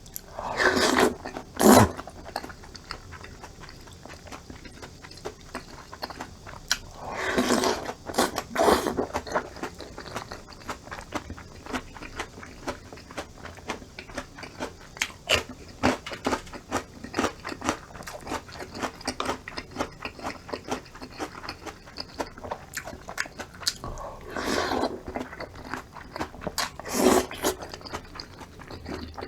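A person eating close to the microphone: steady wet chewing with small clicks, broken by about six louder crunchy bites or slurps, two near the start, two around a quarter of the way in and two near the end.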